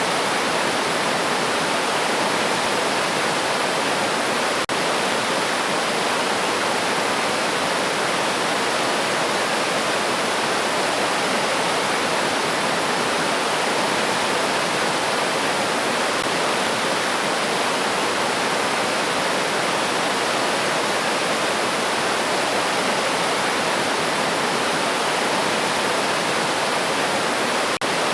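River water rushing over rocks, a steady, even flow with no birdsong in it. Two brief dropouts come about five seconds in and near the end.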